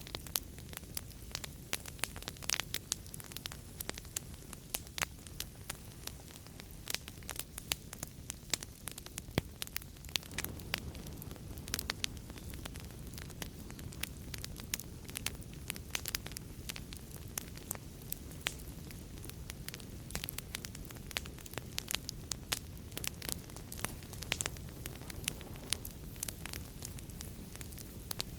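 Fireplace fire crackling: frequent, irregular sharp pops and snaps over a steady low rush of the flames.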